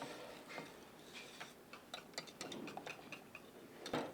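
Light, irregular clicks and taps of a spoon against a saucepan as pudding with melted butter is stirred, with one louder knock near the end.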